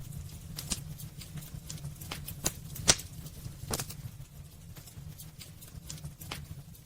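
Wood fire burning in a fireplace: irregular sharp crackles and pops over a steady low rumble of the flames, with the loudest pop about three seconds in.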